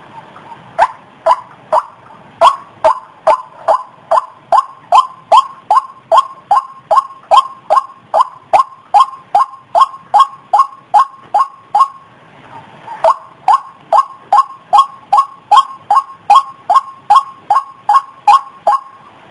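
White-breasted waterhen (ruak-ruak) call played as a bird-trapping lure: a long run of short, sharp repeated notes, about two to three a second, breaking off about twelve seconds in, then starting again.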